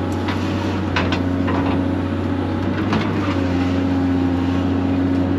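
Excavator's diesel engine running steadily with a deep hum, with a few short clanks about one and three seconds in.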